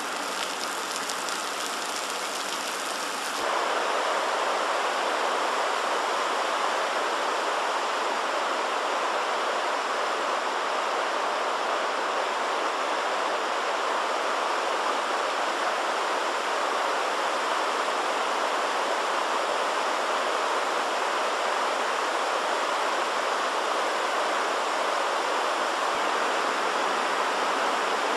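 Heavy rain pouring onto a flooded street with water running across the pavement: a steady rushing noise that steps up louder and fuller about three and a half seconds in.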